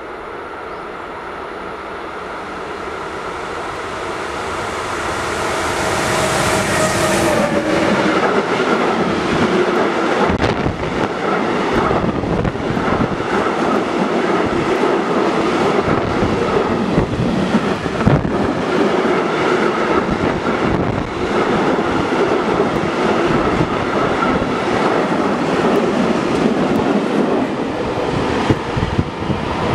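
A freight train of tank wagons approaches and passes close by at speed. It grows louder over the first eight seconds, then goes on as a steady rumble with the clatter of wheels over the rail joints as the wagons go by.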